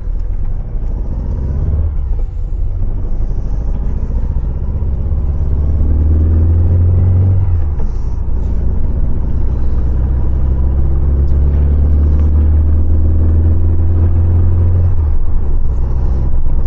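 1974 VW 1303S Beetle's air-cooled 1915cc flat-four engine, heard from inside the cabin while driving. Its note climbs steadily as the car pulls and falls back suddenly twice, about seven and a half and fifteen seconds in, as it changes up a gear.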